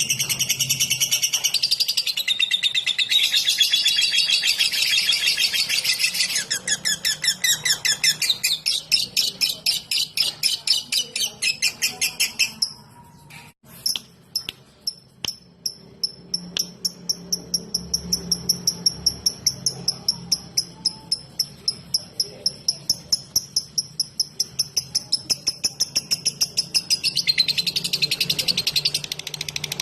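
Lovebird singing in the fast ticking style bird keepers call 'ngetik': dense high chatter, then a long run of rapid ticks, several a second. After a brief break about halfway, the ticking goes on over a thin, high, held whistle, and the dense chatter comes back near the end.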